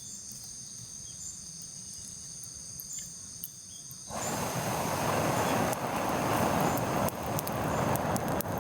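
Insects trilling steadily. About four seconds in, a loud, even rushing noise starts suddenly, covers them, and stops abruptly near the end.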